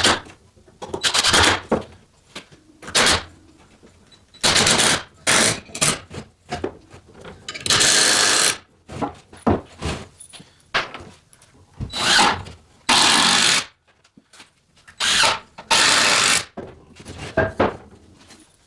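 A power tool run in repeated short bursts of up to about a second and a half each, with short pauses between them.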